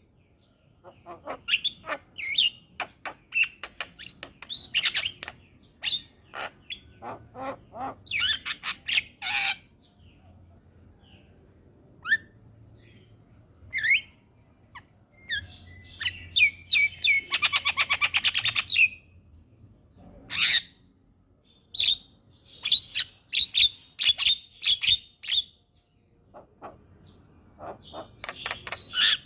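Javan myna (jalak kebo) calling and singing: a busy run of short whistles, clicks and harsh chattering notes in clusters with brief pauses, including a longer rattling phrase a little past the middle.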